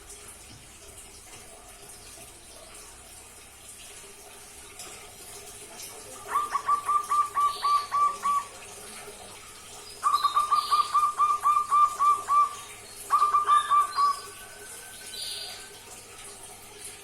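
Young zebra dove (perkutut) still learning its song, giving three bursts of rapid, evenly spaced cooing notes of one pitch. The second burst is the longest and the third is short.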